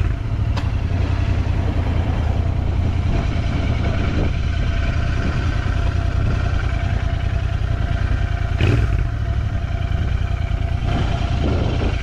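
Motorcycle engine running steadily while riding, with a short click about half a second in and a brief louder bump a little under nine seconds in.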